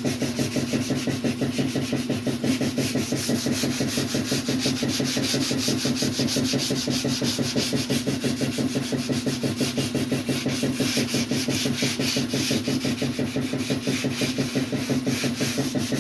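Hand sanding of cured body filler on a car body panel: sandpaper rubbed back and forth in quick, even strokes, over a steady low hum.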